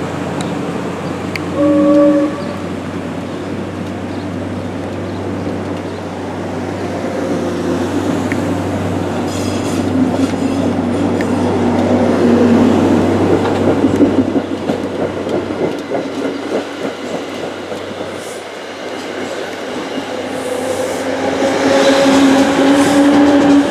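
NJ Transit commuter train of Comet coaches rolling past, its wheels clattering over the rails. A short train-horn blast sounds about two seconds in, and a longer, louder horn sounds near the end.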